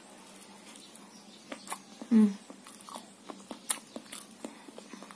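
Close-miked chewing of a fried popolulu cake: soft mouth sounds with scattered sharp wet clicks and smacks, and a short voiced hum about two seconds in.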